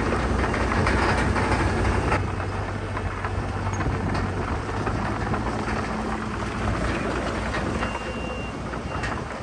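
Diesel engine of heavy earthmoving machinery running steadily with a low rumble, mixed with mechanical clatter. The sound eases slightly about two seconds in.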